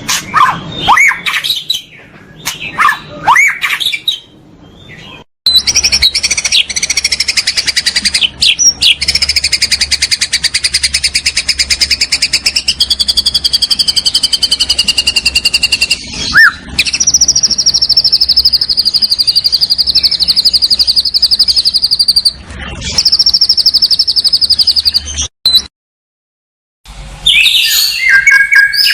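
Recorded songbird song used as masteran tutor audio for white-rumped shamas: varied high whistled phrases, then two long, rapid high trills of about ten and eight seconds, with abrupt cuts between sections and a short silent gap near the end.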